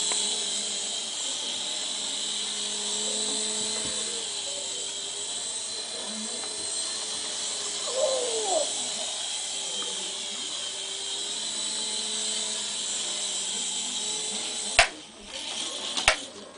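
Toy helicopter's small electric motor and rotor whining steadily in flight. Near the end two sharp knocks as it crashes, and the whine drops away.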